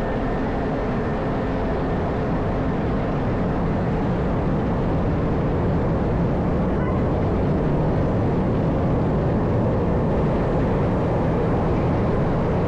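Steady rumble of downtown city traffic, slightly louder about two seconds in.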